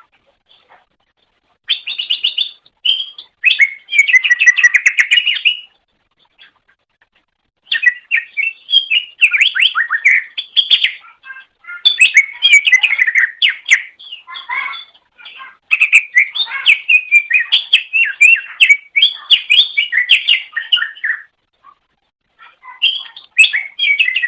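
Cucak ijo (green leafbird) singing its fast, varied chattering song of quick chirps and trills. It comes in four bouts with short silent pauses between them.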